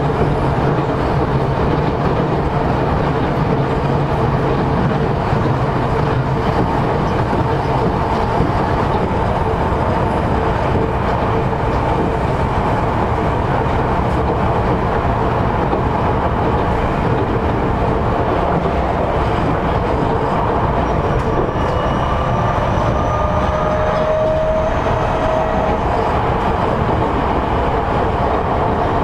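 Tokyo Metro 10000 series electric train with Mitsubishi IGBT-VVVF traction equipment, running at speed and heard from inside a passenger car. A steady running noise of wheels on rail is heard throughout, with a faint rising whine about three-quarters of the way through.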